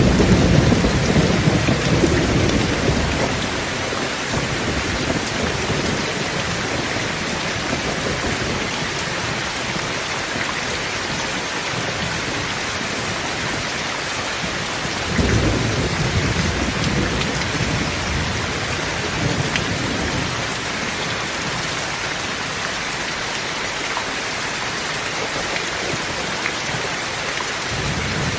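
Thunderstorm: steady heavy rain with rolling thunder. One rumble fades out over the first few seconds and another rolls in about halfway through, then dies away.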